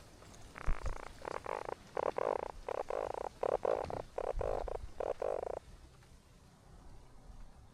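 A run of about a dozen short, pulsed animal calls, each under half a second, following one another for about five seconds and then stopping.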